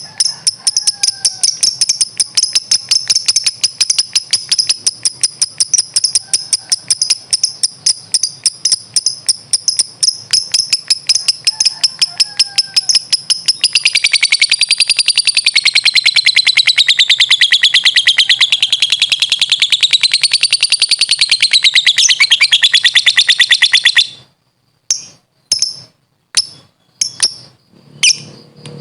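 Lovebird singing its ngekek: a fast run of high chirps that, about halfway through, turns into one long unbroken chattering trill wavering up and down in pitch, lasting about ten seconds before cutting off suddenly; a few separate chirps follow near the end.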